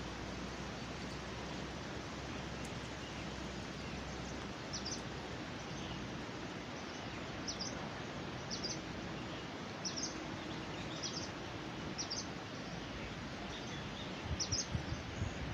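Outdoor ambience: a steady, even hiss with a small bird giving short, high chirps about once a second from about a third of the way in. A few low rumbling bumps begin near the end.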